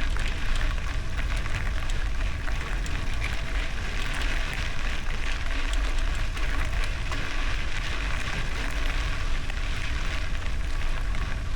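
Bicycle tyres rolling over gravel, a steady crackling crunch, with a low rumble of wind buffeting the microphone.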